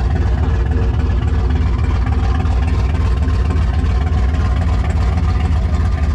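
Fifth-generation Chevrolet Camaro's engine idling loudly and steadily, a deep, even rumble.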